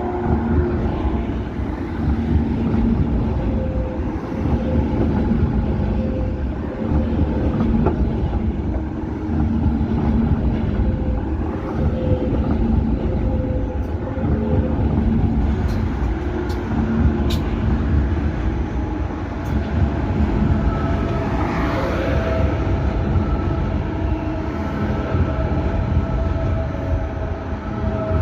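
Train running along the tracks with a loud, continuous low rumble of wheels on rails and a steady multi-tone hum over it, with a few sharp clicks now and then.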